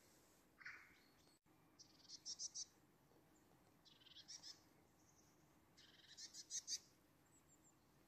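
Faint, high-pitched bird calls over near silence: one short call just before a second in, then three quick runs of rapid notes about two seconds apart.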